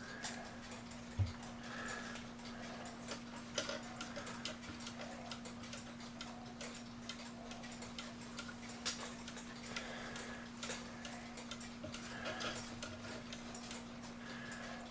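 August Schwer cuckoo clock movement ticking with uneven clicks while the pendulum swings; the clock is out of beat, ticking only a short while before stopping until the pendulum is set level. A steady low hum runs underneath.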